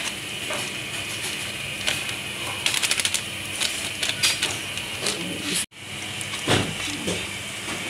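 A spoon clicking and scraping against a cooking pot while stirring, over the steady sizzle of food frying in ghee.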